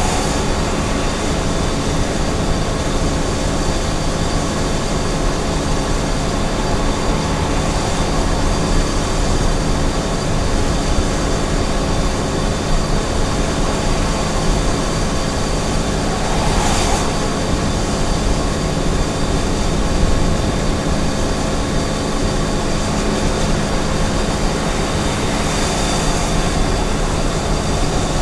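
Small truck's engine and tyre noise while driving steadily at highway speed: a constant drone with a few steady engine tones, and a brief hiss about 17 seconds in.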